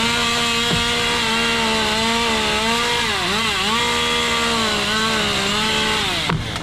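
Two-stroke chainsaw running at high revs. Its steady high note wavers and dips briefly about halfway through, then falls away and cuts off just before the end.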